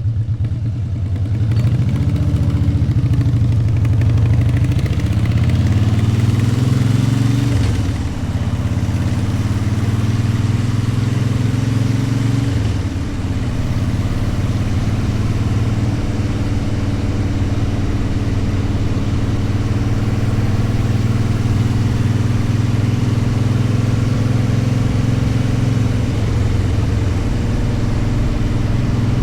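Motorcycle engine pulling away and accelerating, its pitch climbing, with gear changes about eight seconds in and again about thirteen seconds in, then running steadily at cruising speed.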